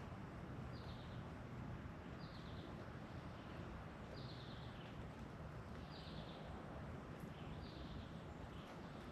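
A bird repeating a short, falling call every second or two over a steady background hiss.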